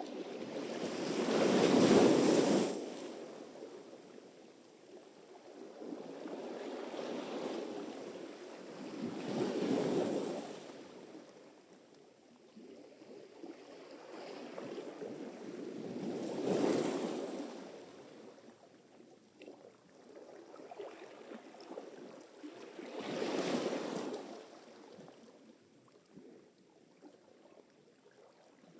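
Sea surf: waves breaking and washing up on the shore in slow surges about every seven seconds. The first surge, a couple of seconds in, is the loudest.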